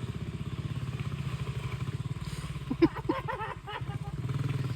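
A vehicle's engine running steadily with a rapid low pulse, with a short burst of a voice about three seconds in.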